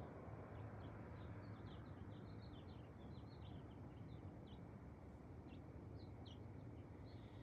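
Small birds chirping: a quick run of short, high calls, busiest a second or two in and sparser after, over a faint steady low rush of outdoor background noise.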